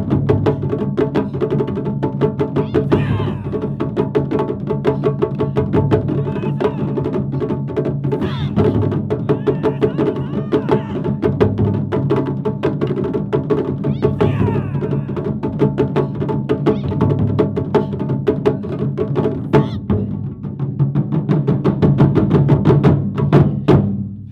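Japanese taiko drum ensemble playing a fast, continuous rhythm of strikes, with the deep drums ringing under the rapid hits.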